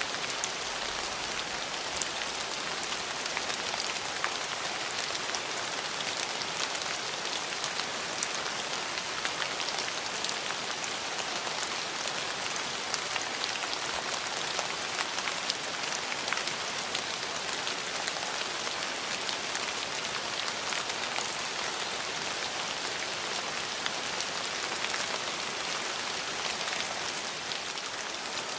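Steady rain falling on hard surfaces, with a constant hiss and many distinct drop ticks scattered through it.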